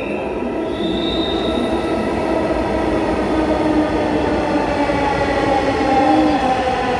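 Dhaka Metro Rail (MRT Line 6) electric train pulling into the station: a steady rumble with a whine of wheels and motors that falls in pitch toward the end as the train slows.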